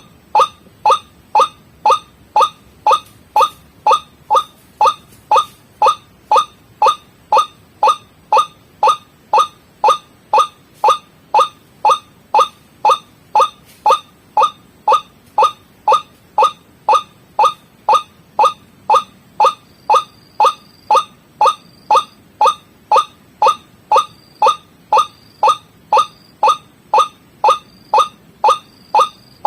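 White-breasted waterhen (ruak-ruak) calls played as a bird-trapping lure: a steady run of short falling notes, about two a second.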